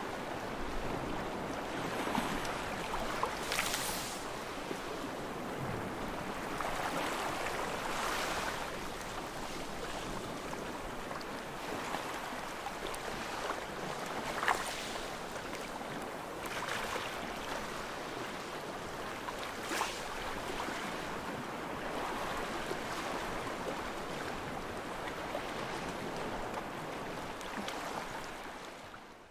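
Ocean surf: a steady wash of waves, with a wave breaking every few seconds, fading out at the end.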